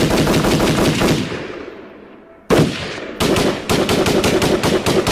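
Rapid gunfire sound effect in two volleys. A fast run of shots rings away in echo, and about two and a half seconds in a second volley starts sharply, at roughly six shots a second.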